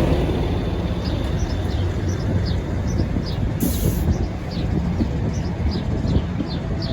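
Diesel train rumbling along the track as its engine fades away, with scattered knocks from the wheels and a brief hiss about halfway through. Birds chirp over it.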